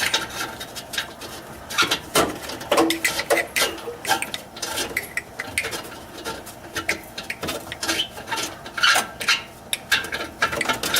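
A 7/8-inch wrench clinking on the hex of a downstream oxygen sensor as the sensor is unscrewed from the exhaust pipe: an irregular run of short metallic clicks and clinks.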